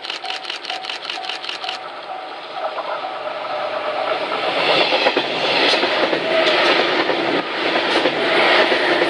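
A level-crossing bell dings steadily. Then the New Nanohana, a converted 485-series electric multiple unit, runs over the crossing, and the noise of its passing builds from about four seconds in, with wheels clattering over the rail joints.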